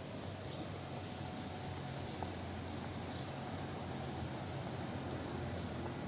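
Steady outdoor ambience of a resort promenade: an even background noise with a low hum under it and a few faint, short high chirps.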